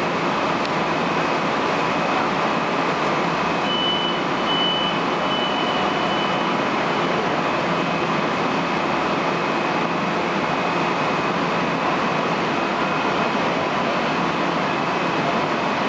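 M7 electric train standing at the platform with a steady hum from its equipment. About four seconds in, a few short high beeps at one pitch sound as the doors close.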